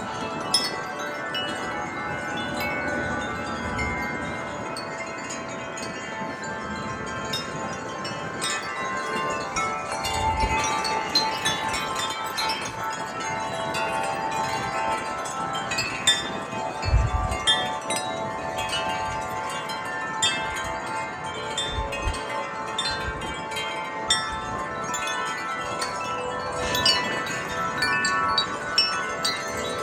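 Several sets of tuned metal wind chimes ringing continuously in strong wind, their tubes struck at random so many notes overlap and sustain. A few low thumps of wind gusts buffet the microphone.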